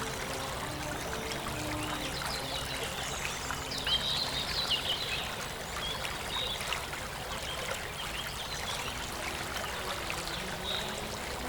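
Flowing water running steadily, like a stream or small waterfall, with brief high bird chirps over it about four to five seconds in.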